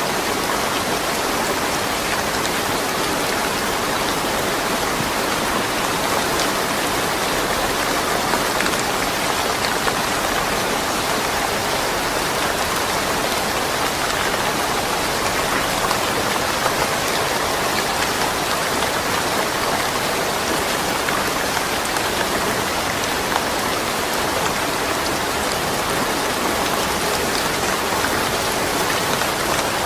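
Steady rain falling, an even, unbroken patter with no thunder.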